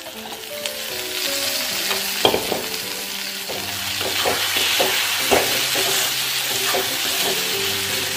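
Diced potatoes sizzling in hot tomato masala in a kadai, the frying hiss growing louder about a second in as they go into the pan. A steel spatula scrapes and knocks against the pan now and then as the potatoes are stirred into the masala.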